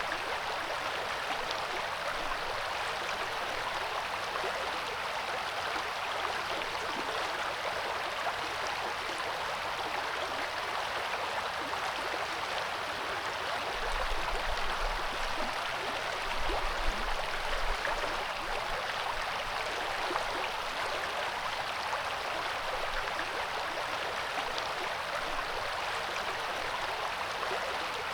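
Coeur d'Alene River flowing, a steady rush of water. A brief low rumble sounds about halfway through.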